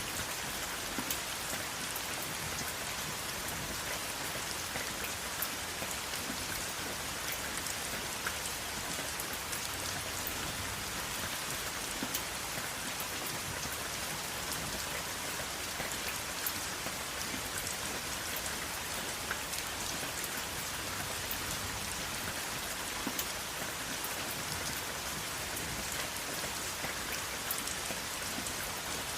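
Steady rain falling, an even hiss with many small drop ticks on a hard surface, and no thunder.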